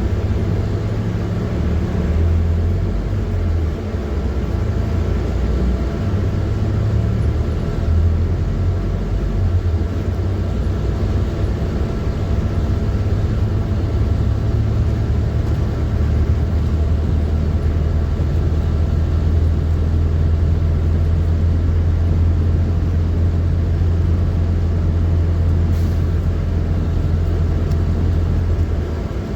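PAZ-4234-05 bus heard from inside the cabin while under way: a steady low engine drone with road rumble. The engine note shifts several times in the first half, then holds steady from about halfway on.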